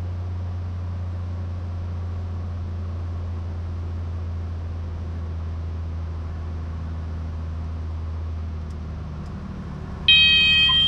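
Cessna 182 engine droning steadily through the intercom, easing off near the end as power comes back in the landing flare. About a second before the end, the stall warning horn starts blaring loudly with a high, steady tone: the wing is nearing the stall just before touchdown.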